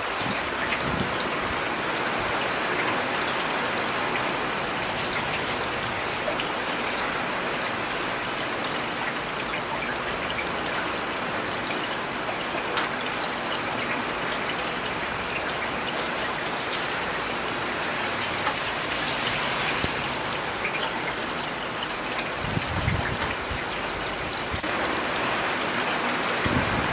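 Steady rain falling on hard surfaces, a dense even hiss with individual drops ticking through it. A brief low rumble comes in about three-quarters of the way through.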